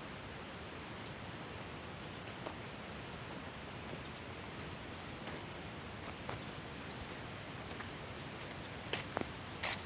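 Small birds chirping, many short high notes each falling in pitch, over a steady background hiss; a few sharp clicks near the end.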